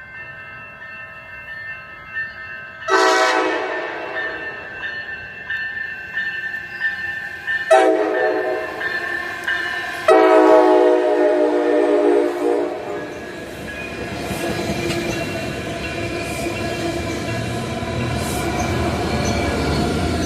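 A passenger train's air horn sounds a long blast, a short blast and another long blast as the train approaches. The train then passes with a steady rumble and the clatter of wheels on the rails.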